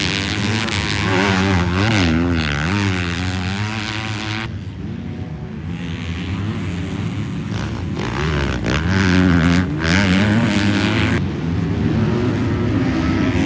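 Motocross bikes racing on the track, their engines revving up and down as riders roll on and off the throttle. The sound shifts abruptly twice, about four and a half and eleven seconds in.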